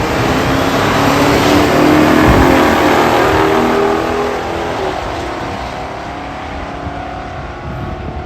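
Muscle car engine at full throttle, accelerating hard down the drag strip. It is loudest about two seconds in, then fades as the car pulls away.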